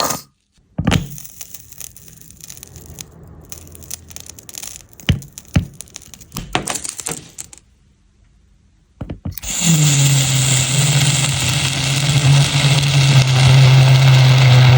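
Scattered clicks and knocks for the first few seconds, then, about nine and a half seconds in, a red-hot iron ball meets wood glue and sets off a loud, steady sizzling with a low drone underneath as the glue boils against the ball.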